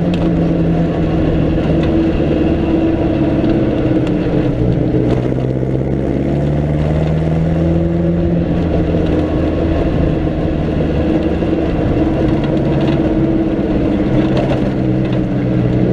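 A 1937 Riley 12/4 Sprite Special's 1.5-litre four-cylinder engine heard onboard from the open cockpit, running hard under way, its note rising and falling with the throttle.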